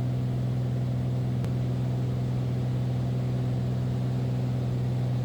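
Beechcraft Bonanza's piston engine and propeller running steadily in flight, an even drone heard from inside the cockpit, with one faint click about a second and a half in.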